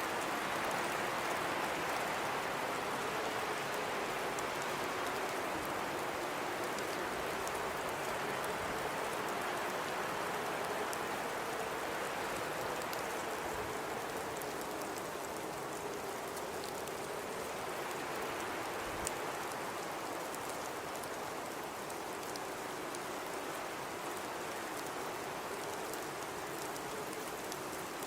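Blizzard wind rushing steadily, with a faint low howl that wavers in pitch and the whole sound slowly easing a little. Scattered faint ticks, with one sharper click about two-thirds of the way through.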